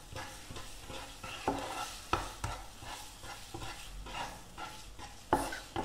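Tamarind paste frying in oil in a metal pan with a faint sizzle, while a wooden spatula stirs and scrapes it across the pan, with a few sharper scrapes or knocks, the loudest near the end.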